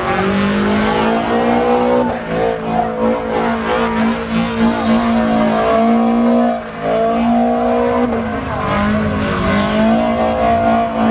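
Car engine revved hard and held at high revs, dipping briefly a few times, with tyres spinning and squealing on the pavement.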